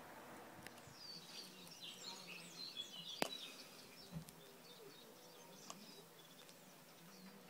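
Small birds chirping faintly, with one sharp click a little over three seconds in.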